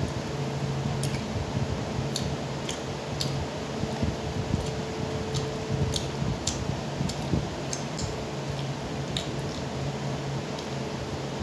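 A person eating biryani and chicken by hand, chewing with open mouth: wet smacking and sharp little clicks of lips and tongue, irregular throughout, over a steady low hum.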